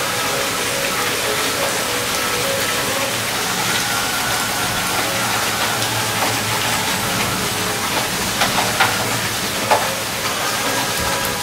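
Heavy downpour of rain on a concrete driveway and lawn, a steady hiss. A few sharper drip taps stand out between about eight and ten seconds in.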